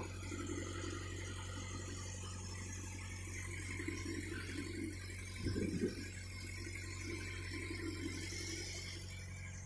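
Steady low hum of a motor aboard a fishing boat, with a faint hiss over it and a brief faint low sound about five and a half seconds in.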